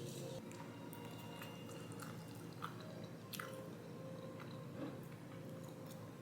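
A person chewing food, with a few short clicks.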